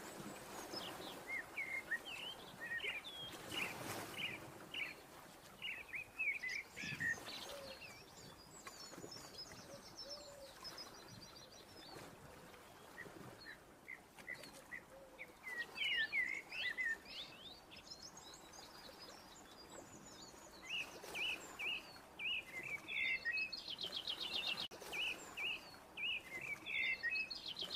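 Songbirds chirping: short scattered calls, with a fast repeated trill near the end.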